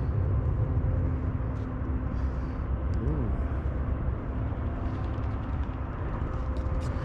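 Outdoor background noise: a steady low rumble with a faint, even engine hum beneath it, and a brief rising-and-falling sound about three seconds in.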